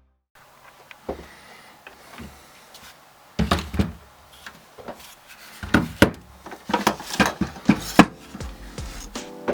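Handling noises: a run of irregular clicks and knocks, sparse at first and coming thick and fast through the second half.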